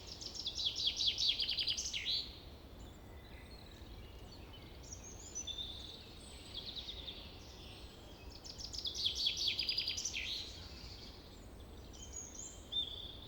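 Small songbirds singing: two phrases of about two seconds each, one at the start and one about nine seconds in, made of rapid high notes that end in a falling sweep, with short high chirps in between.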